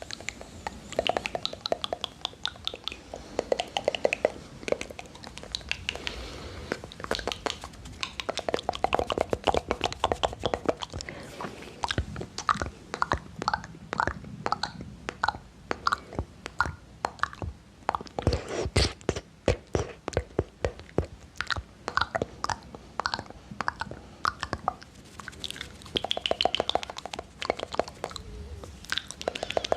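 Close-miked ASMR mouth sounds: quick, irregular runs of clicks and smacks from the lips and tongue.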